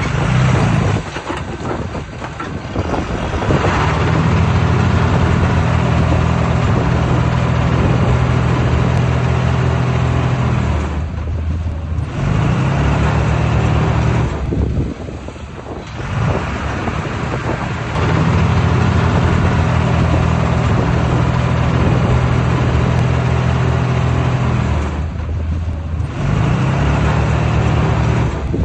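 Heavy diesel engine of a bulldozer working hard under load in long steady stretches. It eases off briefly several times, then comes back up to full power, as the machine pushes soil.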